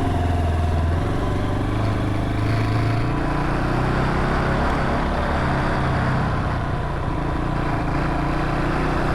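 Wuyang-Honda 190 motorcycle's single-cylinder engine running steadily, its pitch stepping up and down a few times, with a continuous rushing noise over it.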